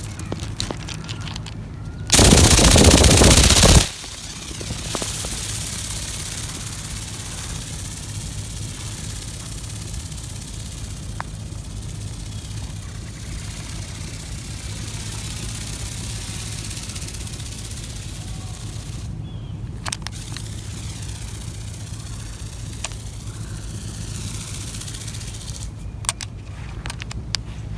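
Remote-controlled flapping-wing toy bird in flight, its wing mechanism making a rapid rattling buzz that shifts as it moves about. About two seconds in there is a very loud rushing noise lasting under two seconds, and a few sharp clicks come later.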